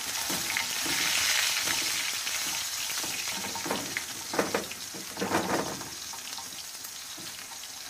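Minced-meat chapli kebab frying in oil on a hot iron tawa: a steady sizzle, strongest in the first couple of seconds and easing a little after, with a few brief louder crackles around the middle.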